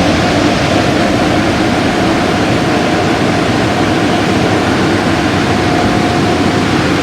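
Car wash equipment running: a loud, steady rush with a constant whine.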